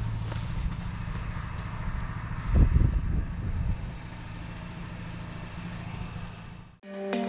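Petrol pressure-washer engine running steadily at a constant speed, with a louder burst of noise about two and a half seconds in. The sound cuts off suddenly near the end and music begins.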